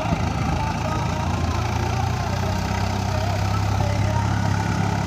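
Swaraj tractor's diesel engine running steadily at an even speed.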